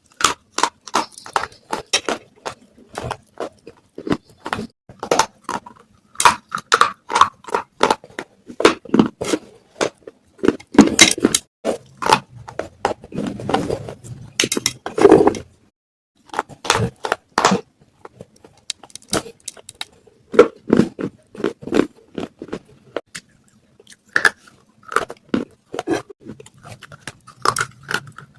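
Baked clay pot (matka) pieces crunching close to the microphone: a dense run of sharp crunches and crackles, with a short pause about 16 seconds in.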